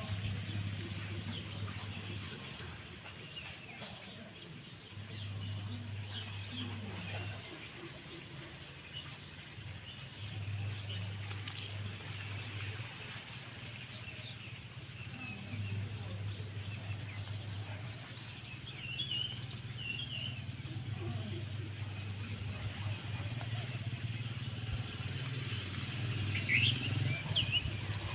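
Small birds chirping in short scattered calls over outdoor ambience, with a low hum that comes and goes every few seconds.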